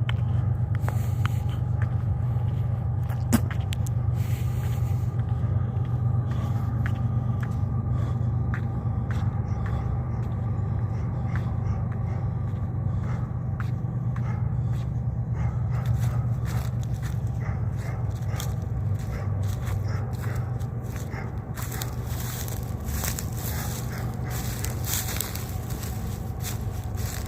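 Diesel freight locomotives working under load up a grade as they approach, a steady low engine drone. Scattered clicks and scrapes sound close by, and a hiss builds near the end.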